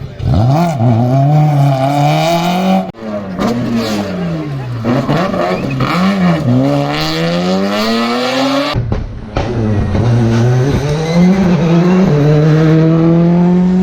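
Rally cars driven hard on a stage: the engine revs climb and drop again and again through gear changes and lifts. The sound cuts abruptly to a different car about three seconds in and again about nine seconds in, and the last car holds a steady high engine note near the end.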